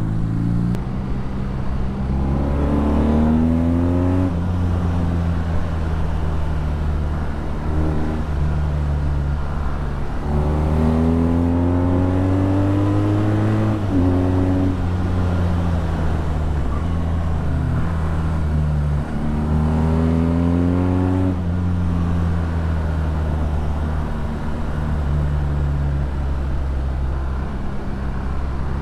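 BMW R nineT's 1170 cc boxer twin running through an Akrapovič exhaust under way. It pulls up in pitch three times, each pull ending in a sudden drop at a gear change, with steady running in between.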